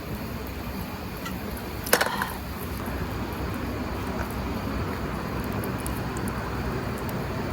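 Steady background rumble with a single sharp clink about two seconds in.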